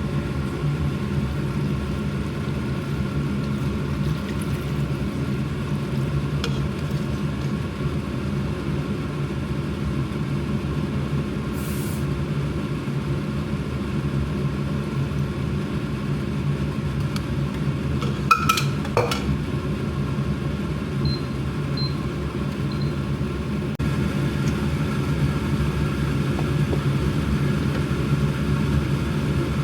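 A steady low mechanical drone. A short cluster of clicks comes about two-thirds of the way through, and three faint short high beeps follow soon after.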